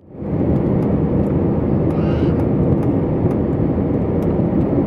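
Airliner noise during a landing approach: a steady low rumble of engines and rushing air, fading up at the very start and then holding level.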